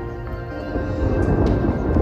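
Distant thunder rumbling, building in a low rolling swell from about half a second in, over a steady background of sustained musical tones.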